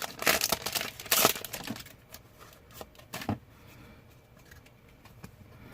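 Foil booster-pack wrapper crinkling in the hands for about two seconds, then quieter handling of trading cards with a couple of light clicks.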